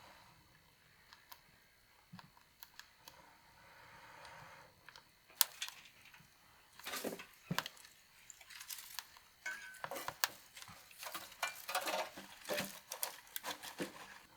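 Irregular knocks, clicks and rustling from stoking a fire. The sounds are sparse at first and grow dense and busy in the second half.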